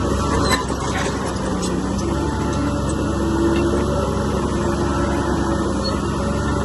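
Heavy diesel earthmoving machinery running steadily under load, with a few faint clanks in the first second.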